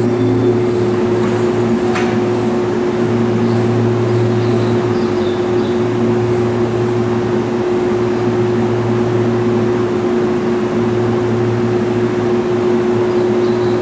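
Keihan electric train humming steadily, a constant low tone from its running equipment with no change in level.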